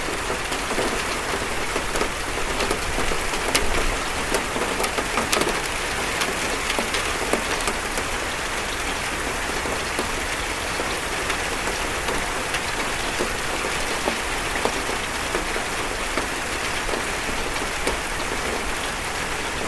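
Steady rain on a metal roof: a dense hiss of rain with many distinct drops ticking on the metal, the drops most frequent in the first few seconds.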